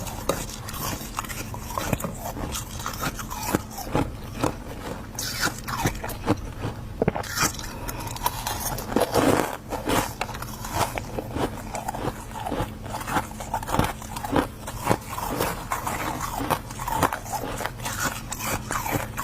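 Close-up crunching and chewing of freezer frost being bitten, with dense, irregular crisp crunches and scrapes throughout. A steady low hum runs underneath.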